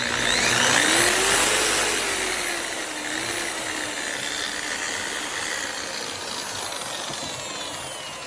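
Makita 9227C electric buffer/polisher motor running up in speed with a rising whine, then slowly dropping in pitch as the speed is turned down. The variable speed now responds, the sign that the replaced speed controller works.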